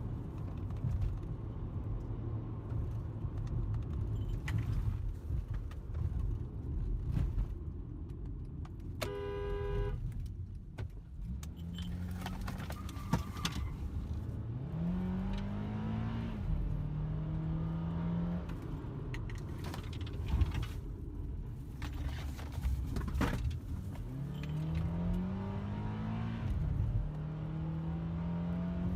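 Steady road and engine noise from a moving car, with a car horn sounding once for about a second around nine seconds in. Later an engine speeds up twice, each time its pitch rising and then holding steady.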